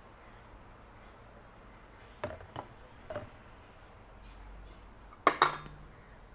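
Kitchenware knocking together: a few light clicks, then two sharp clacks in quick succession about five seconds in, like dishes or utensils set against a pot or bowl.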